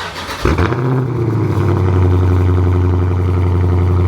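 Dodge Challenger Scat Pack's 392 HEMI V8 cold start: a brief crank, the engine catches about half a second in, then settles into a steady, loud cold idle.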